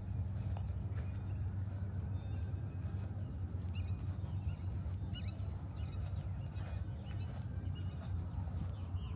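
Park outdoor ambience: a steady low rumble under footsteps on the path, with a few short high bird chirps from about four seconds in.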